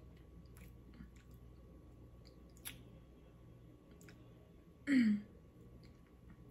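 Faint mouth clicks of a person chewing ramen noodles, with one short vocal sound falling in pitch about five seconds in.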